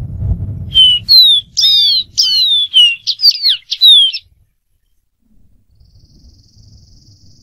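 Dark-throated seedeater singing one phrase of about ten clear whistled notes, mostly quick falling slurs, lasting about three seconds. A low rumble comes just before the song starts.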